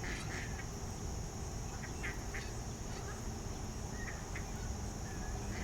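Steady high-pitched drone of insects, with a few short, scattered duck quacks.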